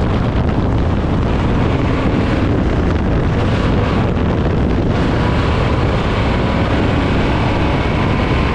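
Dirt-track race car running at speed, a loud steady engine din mixed with wind buffeting the microphone.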